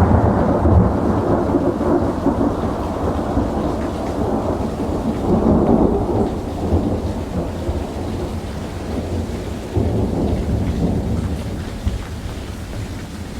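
Rolling thunder rumbling, swelling again about halfway through and once more near the end, then slowly fading.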